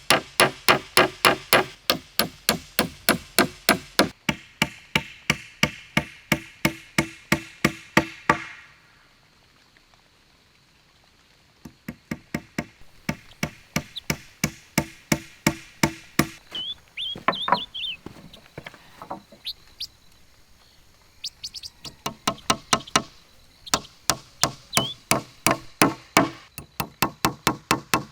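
Rapid, regular chopping or hammering strikes on wood, about three a second, in runs broken by a pause of a few seconds.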